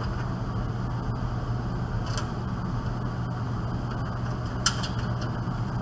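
Steady low hum with two sharp metallic clicks, a faint one about two seconds in and a louder one near the end, as a screw is driven back into a desktop computer case's cover.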